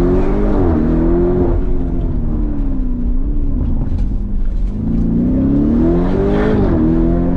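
Car engine revving up twice. Each time the pitch rises, dips briefly, holds high, then falls as the throttle comes off.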